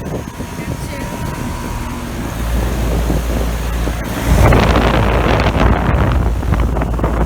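Running outdoor air-conditioner condensing units hum steadily. From about two seconds in, air buffets the microphone with a low rumble that grows heavier and more ragged about four seconds in and becomes the loudest sound.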